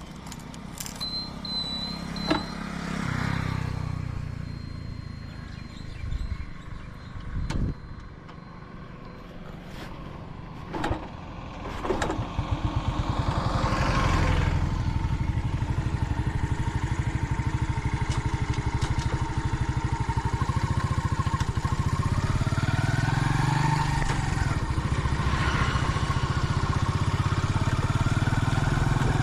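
Vintage Yamaha motorcycle engine, quieter at first among passing traffic sounds. About twelve seconds in it picks up and runs loud and steady with a fast, even pulsing beat as the bike rides on.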